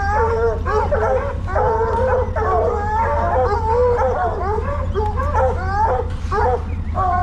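Two coonhounds baying, their overlapping calls following one another without a break, over a steady low hum.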